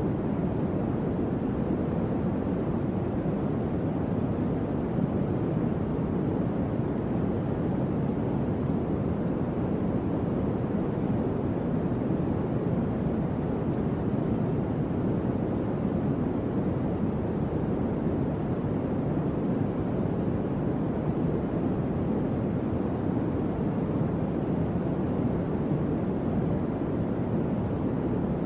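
Electric fan running steadily: an even, low rush of moving air with no hum tone, clicks or changes.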